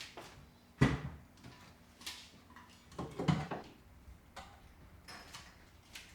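Knocks and bumps of household items being handled and set down: a sharp knock just under a second in, another about two seconds in, and a cluster of knocks about three seconds in, with lighter ticks between.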